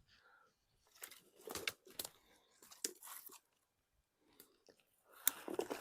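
Footsteps crunching through dry twigs and dead wood on the forest floor, a few irregular steps with pauses between them.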